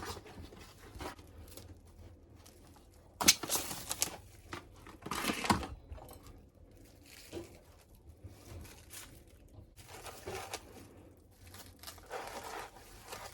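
Plastic cling wrap being handled, rustling and crinkling in several short spells, the loudest about three seconds in.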